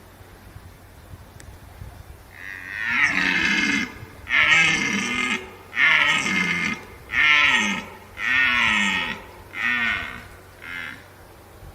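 A large animal calling seven times in a row, the first call long and the later ones shorter and fainter.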